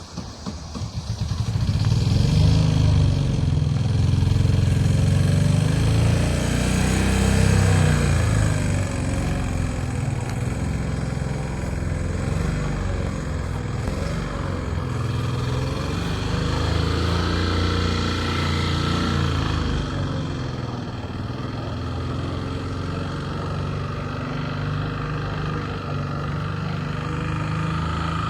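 A motor engine running close by, growing loud about a second in and then holding steady, a little quieter in the second half.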